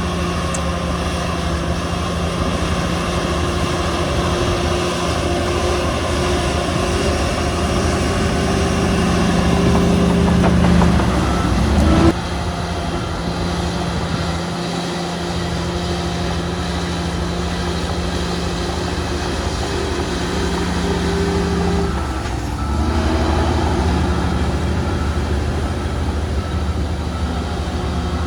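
Heavy diesel earthmoving machinery running steadily under load. The engine works harder and louder up to a sharp knock about twelve seconds in, then settles, and changes note again about twenty-two seconds in.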